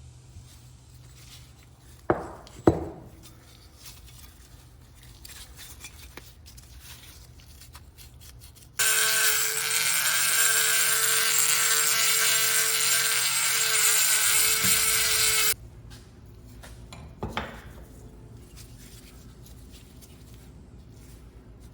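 Two sharp knocks, then a small power tool runs steadily for about seven seconds at one pitch and cuts off suddenly, followed by another knock.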